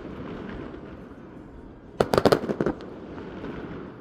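Fireworks shells bursting overhead: a rapid cluster of sharp bangs and crackles about halfway in, over a steady low rumble of echo and earlier bursts.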